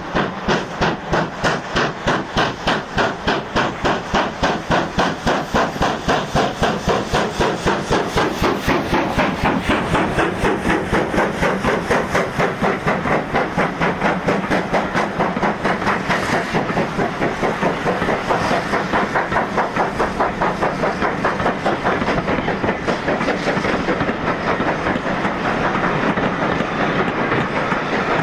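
GWR Modified Hall steam locomotive 6990 'Witherslack Hall', a two-cylinder 4-6-0, working hard away from a stand. Its exhaust beats start about two a second and quicken steadily as it picks up speed, with a hiss of steam underneath.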